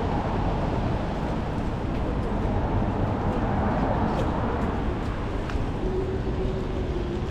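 Traffic on a wet city street in the rain: a steady rumble of passing vehicles and tyre hiss. A faint held tone comes in near the end.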